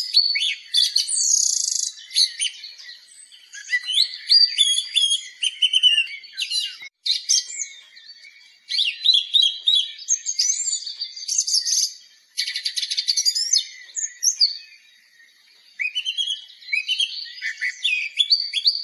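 Songbirds singing, several high chirps, trills and gliding whistles overlapping in a dense chorus with no low sound beneath. The song cuts out for an instant about seven seconds in and thins to near quiet for a moment about fifteen seconds in.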